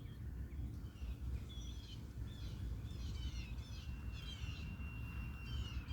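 Small birds chirping in short, repeated calls, with one thin, steady high note held for about two seconds past the middle, over a low rumble.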